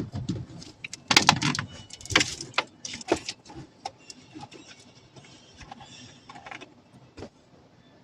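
A run of knocks, clicks and rattles from objects being handled, busiest in the first few seconds and then thinning to a few scattered clicks.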